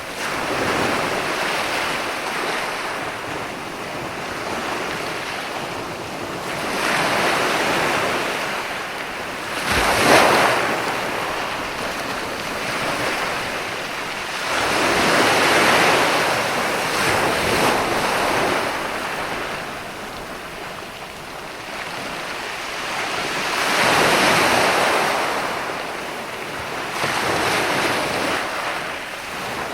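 Mediterranean sea waves breaking on a beach and washing up the shore. The surf swells and fades every several seconds, with a sharper, louder crash about ten seconds in.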